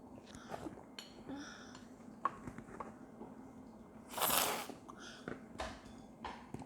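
Close-up eating sounds: chewing with small scattered clicks, and a short hissy burst, the loudest sound here, about four seconds in.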